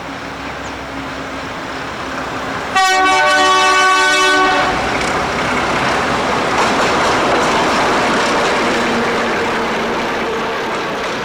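Alco diesel locomotive 844 approaching and going past. Its horn sounds a multi-note chord for about two seconds, starting a little under three seconds in. The loud rumble of the engine and train then follows and fades slowly.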